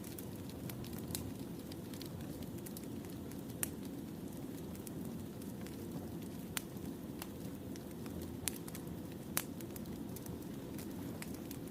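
Wood fire burning: a steady low rumble of flames with scattered sharp crackles and pops from the burning logs, four of them louder than the rest.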